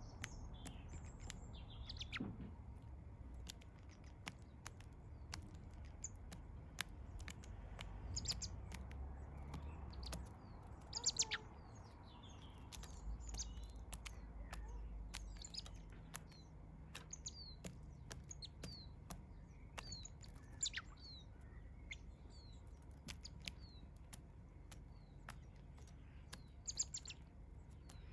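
Small garden birds chirping: many short, high calls throughout, some in quick runs of falling notes.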